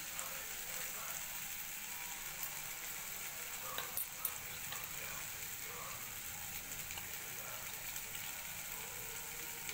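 Chopped potato, onion and tomato sizzling softly in oil in a pan on a low flame: a steady, quiet hiss, with a few faint clicks about four seconds in.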